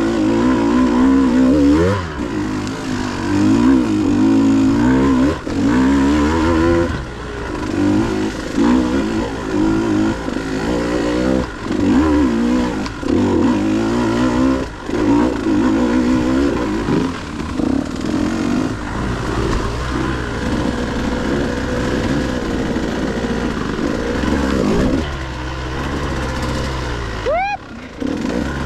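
KTM 150 two-stroke dirt bike engine revving up and dropping back over and over as it is ridden over rough trail, dipping briefly near the end.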